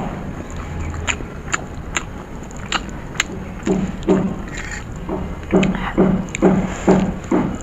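Someone eating masala Maggi noodles. A few sharp wet clicks at first, then steady close-up chewing about twice a second for the second half.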